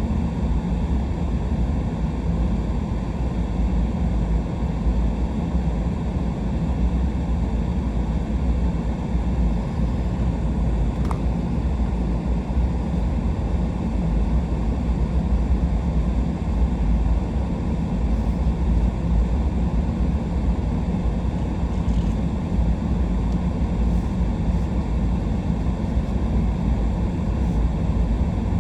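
Steady low rumble of a truck driving at low speed, engine and tyre noise blended together.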